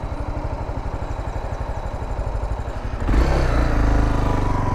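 Honda Sahara 300's single-cylinder engine idling with a fast, even beat. About three seconds in it is throttled up, louder and rising in pitch, as the bike pulls away.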